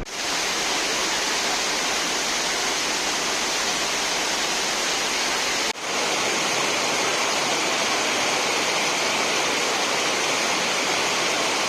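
Waterfall running, a steady loud rush of falling water, with a brief break about halfway through.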